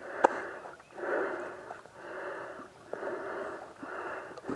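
A person breathing hard and rhythmically close to the microphone, about one breath a second, with one sharp click about a quarter second in.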